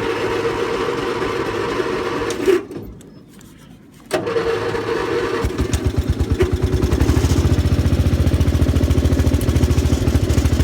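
Gravely 8163 garden tractor's Briggs & Stratton engine being electric-started from cold in 10-degree weather: the starter cranks for about two and a half seconds without it catching, stops, cranks again about four seconds in, and the engine catches and runs up to a steady, even beat.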